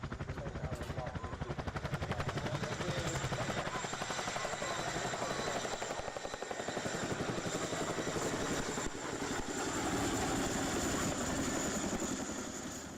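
Helicopter rotor chop, a fast steady beating of the blades under a thin high whine. It cuts off abruptly at the very end.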